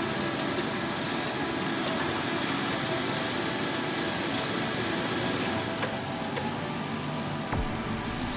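Heavy machine's engine running steadily, a continuous low mechanical drone with no clear change.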